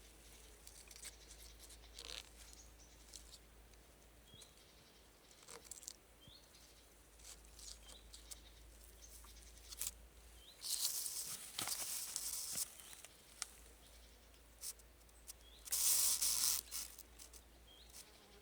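Small handling noises in a forest: scattered clicks and snaps of wood, and two brief rustling, scraping bursts, the second near the end. A small bird gives a few short, high chirps.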